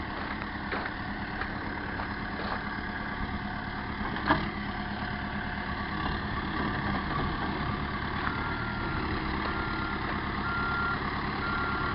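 Caterpillar backhoe loader's diesel engine running steadily, with a single sharp clank about four seconds in. From about eight seconds its reversing alarm beeps about once a second as the machine backs up.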